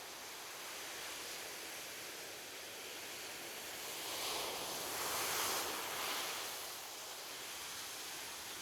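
Ocean surf washing on a beach as a steady hiss. One wave swells louder and breaks a little past halfway, then dies back down.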